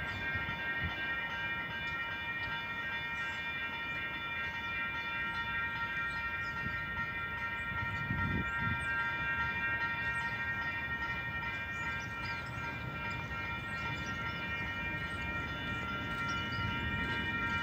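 KiwiRail freight train running by: a low rumble with a steady, unbroken high ringing of several tones over it, and a brief low swell about eight seconds in.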